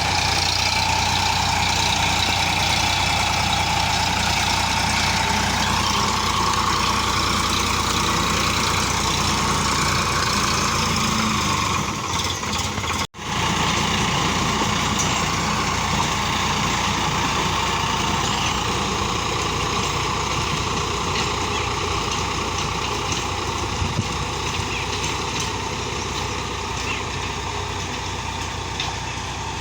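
Sonalika tractor's diesel engine running steadily, with a deep, even low hum. The sound drops out for an instant about thirteen seconds in, then carries on.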